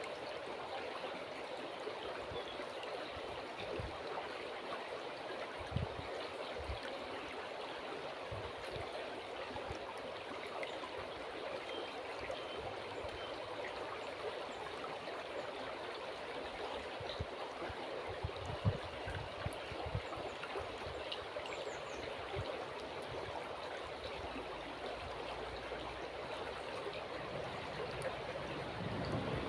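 River water flowing steadily, an even rushing noise with no let-up. A few brief low thumps show through it, the plainest about six and nineteen seconds in.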